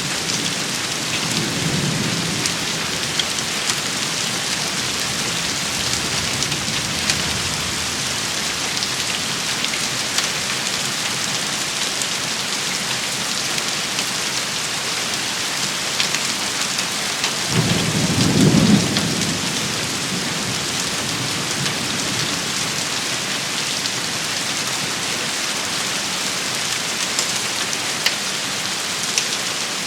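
Steady heavy rain hissing on a surface. A low rumble of thunder swells and fades a little past halfway, with a fainter rumble near the start.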